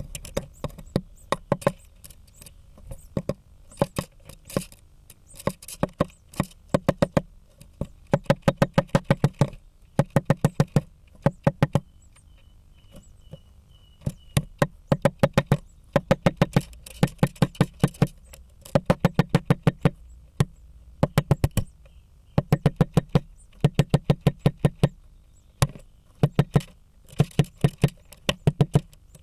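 Female great spotted woodpecker hammering at the wood of a blue tits' nest to break in: loud, rapid taps in bursts of about half a dozen to ten, a burst every second or two.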